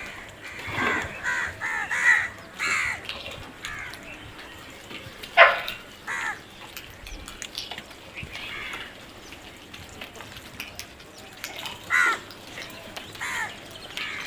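Crows cawing: a quick run of calls in the first few seconds, one loud caw about five seconds in, and a few more calls near the end.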